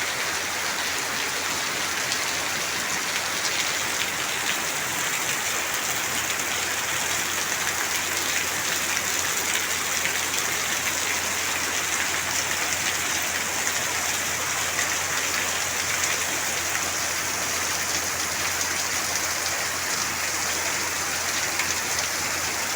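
Heavy rain falling steadily at night, an even hiss of rain on surfaces with no breaks.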